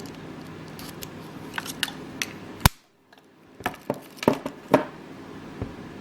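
Metal clicks and snaps from a Victorinox Swisschamp XLT Swiss Army knife's tools being worked by hand. One sharp snap comes about two and a half seconds in, then a quick run of clicks a second or so later.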